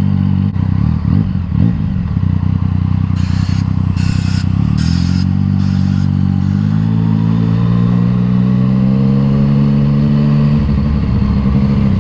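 Yamaha MT-09's inline three-cylinder engine with an Akrapovič exhaust, running at low revs at riding pace; its note rises about seven seconds in and then holds steady.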